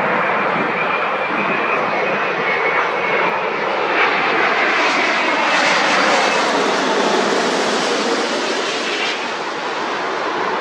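Jet airliner's engines passing, a steady loud rushing noise that swells about halfway through, with a tone gliding slowly downward as it goes by, then easing off.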